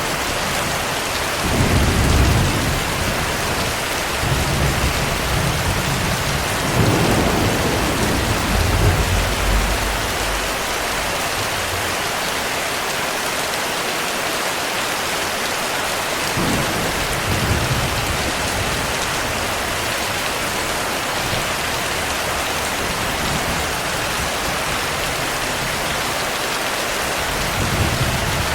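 Heavy rain falling steadily, with low rolls of thunder rumbling in and fading several times: a long roll in the first ten seconds, another around halfway and a short one near the end.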